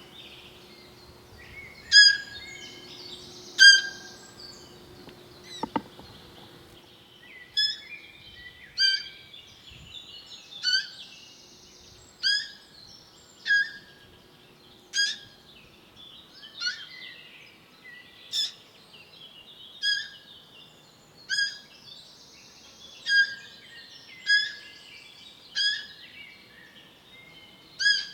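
A bird giving a short, high call over and over, about every one and a half seconds, with fainter chirping behind it.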